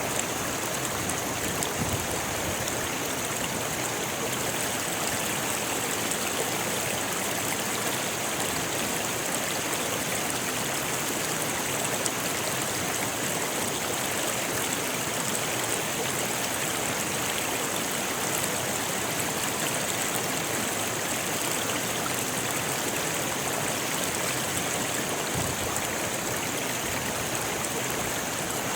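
Rocky river rushing steadily over stones, a continuous even splashing and hiss of fast water.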